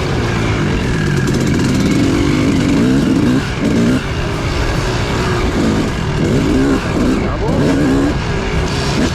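Dirt bike engine being ridden on a trail, its pitch rising and falling with the throttle. It dips briefly twice around the middle, then revs up in short pulls several times near the end.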